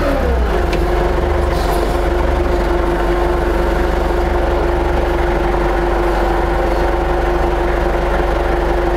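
Forklift truck running steadily while lifting its forks with a load of long metal pipes: a steady whine over a low hum, its pitch dropping and settling in the first half-second.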